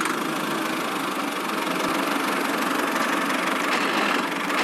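A small motor running steadily, a coarse even whirr.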